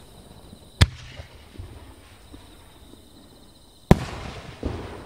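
Aerial firework shells bursting: two sharp bangs about three seconds apart, each followed by a fainter second report less than a second later.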